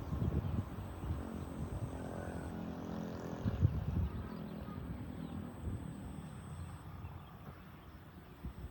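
Cattle lowing: a long, low moo that carries on into the first few seconds, then another from about four seconds in that fades out. Low rumbling thumps come under it, loudest at the start and about three and a half seconds in.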